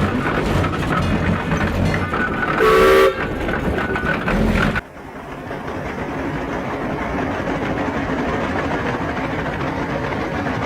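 Steam traction engine running, with one short steam whistle blast about two and a half seconds in, the loudest sound. Just before the halfway point it cuts to a quieter, steady engine running sound.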